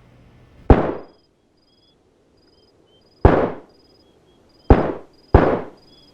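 Four gunshots, each with a short ringing tail: one single shot, then after a gap of about two and a half seconds, three more in quicker succession, the last two about half a second apart.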